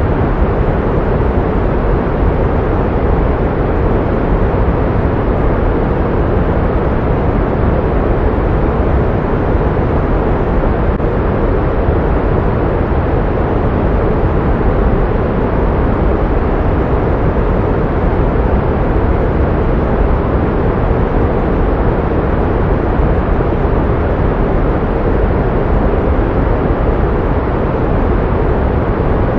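Pink noise: a steady, unchanging hiss weighted toward the low and middle range.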